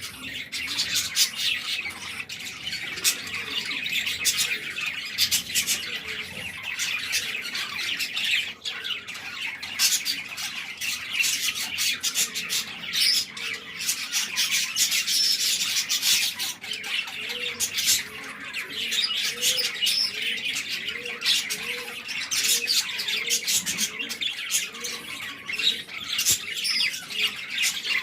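Budgerigars chirping and squawking rapidly and without a break: the calls of budgie chicks begging as their parent feeds them.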